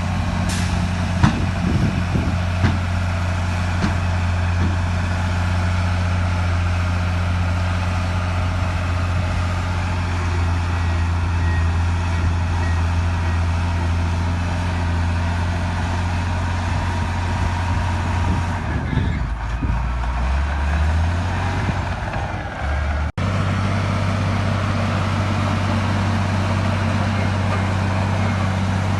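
Heavy earthmoving machine's diesel engine running under work with a steady low drone, with a few sharp knocks in the first few seconds. Around twenty seconds in the engine note drops lower for a couple of seconds, then the sound breaks off for an instant and the same steady drone carries on.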